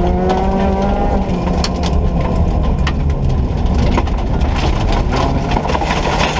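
Ford Ka rally car's engine running hard at speed, its pitch climbing in the first second, over a heavy rumble of road noise. Many sharp knocks from the road surface strike the car throughout.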